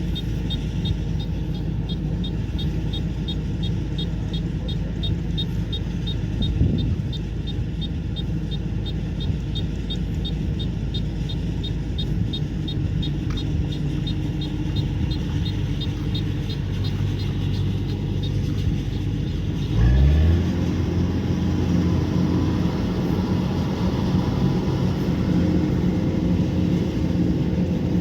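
Kubota combine harvester engine running steadily, with a fast, even high ticking over it through the first half. About two-thirds of the way through, the engine note rises sharply and gets louder, then holds there.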